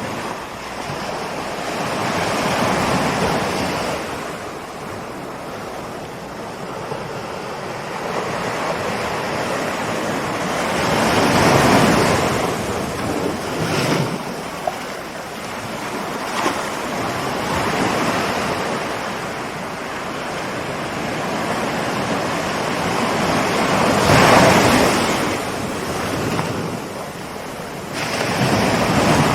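Ocean surf: waves rolling in and breaking, a steady wash that swells into louder surges every several seconds, the loudest about twelve and twenty-four seconds in.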